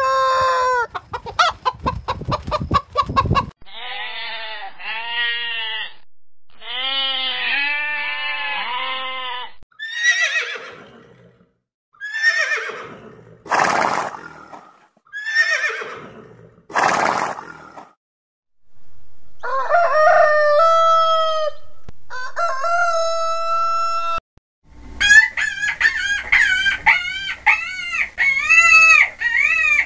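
A run of farm-animal calls. First hens clucking and a rooster crowing, then about five horse whinnies, each falling in pitch, and after that more high, wavering animal cries.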